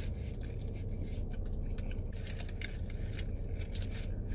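A person chewing food close to the microphone: many small, soft clicks and smacks over a steady low hum.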